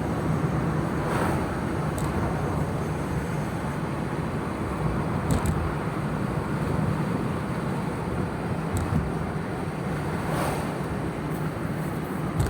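Steady road and engine noise of a car being driven, heard inside the cabin, with a constant low hum and a few faint ticks.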